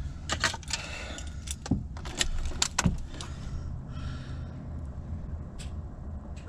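Keys jangling with a run of sharp clicks and rattles in a semi truck's cab, over a low rumble; a steady low hum comes in about three seconds in.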